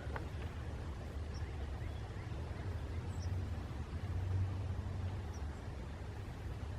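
Outdoor ambience: a steady low rumble with a few faint, short high chirps from distant birds scattered through it, and a brief click at the very start.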